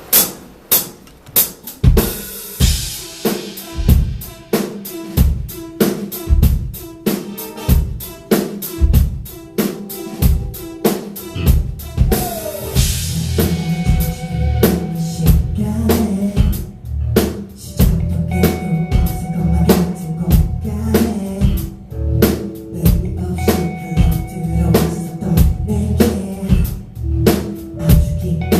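Pop song intro played loud at a concert: a drum kit beat of kick and snare hits with cymbal swells, a bass line joining about halfway through, and no vocals yet.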